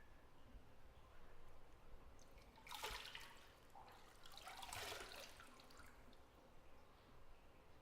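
Bathwater sloshing in a tub, two faint splashes about a second and a half apart, over quiet bathroom room tone.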